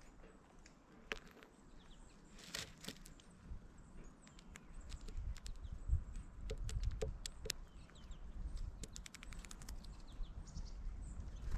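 Birds at a feeder: scattered sharp taps and pecks with a few short chirps, over a low rumble that grows in the second half.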